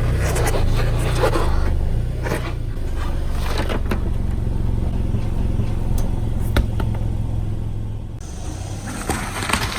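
Car engine running slowly while a tyre rolls over and crushes objects, with scattered crackles and sharp snaps and a small cluster of crackles near the end.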